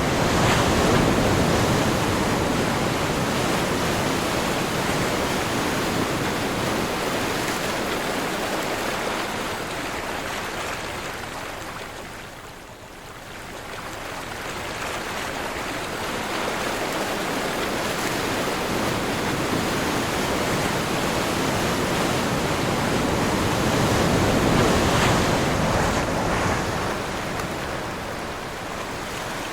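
Sea waves breaking and washing in, surging loud about a second in and again near the end, with a quieter lull around halfway.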